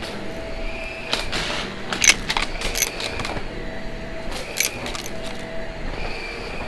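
Vacuum cleaner running with a steady noisy hum and faint tones that come and go, broken by several sharp clicks and knocks.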